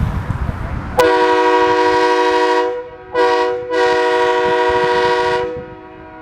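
A loud multi-note air horn sounding a chord in three blasts: a long one starting about a second in, a short one, then another long one.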